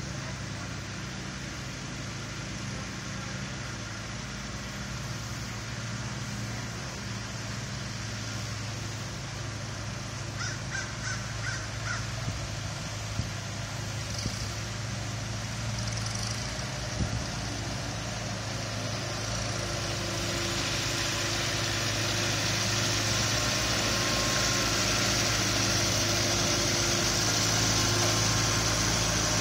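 Tractor engine running steadily with a low hum, growing louder over the last third. A few short, high, repeated calls come through about ten seconds in.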